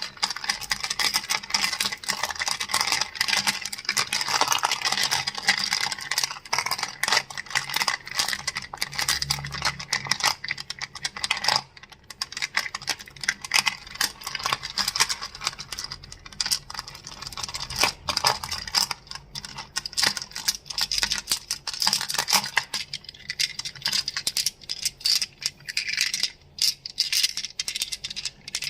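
Crystals clicking and clacking against each other in a quick, dense rattle of small clicks, with a brief lull about twelve seconds in.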